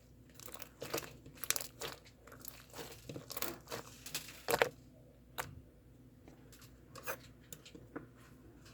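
Irregular crinkling and crackling, close up, in quick clusters for about the first five seconds and then in scattered single crackles.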